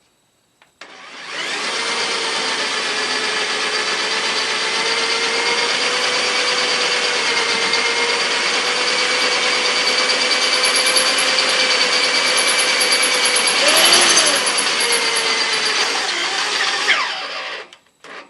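Cordless drill boring through steel with a steady whine for about sixteen seconds. It starts about a second in, roughens briefly near the end of the run, and stops just before the end.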